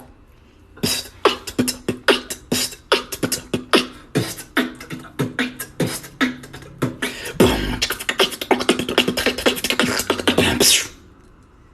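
Human beatboxing: a fast run of sharp mouth-made drum strokes that grows into a dense, nearly unbroken stretch with a deep boom about seven and a half seconds in, then stops abruptly near the end.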